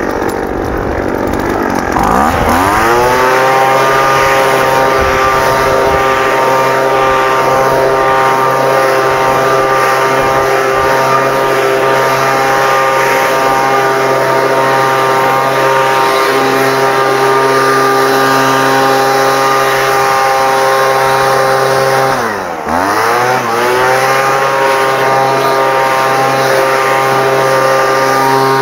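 Small gasoline engine of lawn-care equipment revving up about two seconds in and running steadily at high speed. It drops sharply and revs back up a little after twenty seconds in.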